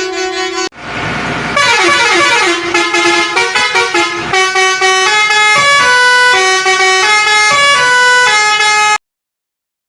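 A short whoosh, then a run of horn tones that jump between pitches in steps, several sounding at once. It cuts off suddenly to silence near the end.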